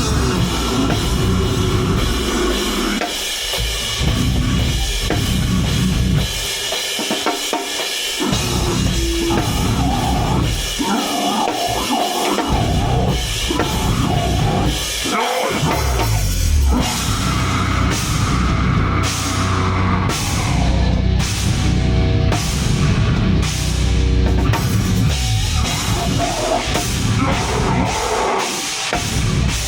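A heavy metal band playing live at full volume: drum kit with cymbals under loud, dense heavy music. The low end cuts out briefly several times in the first half, stop-start riffing, before running on without a break.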